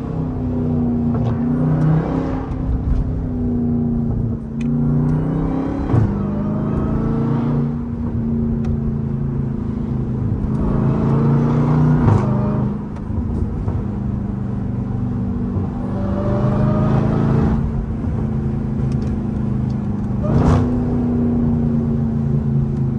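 Supercharged 6.2-litre V8 of a Jeep Grand Cherokee Trackhawk running under way, its note rising and falling with the throttle, with a few short sharp bursts along the way.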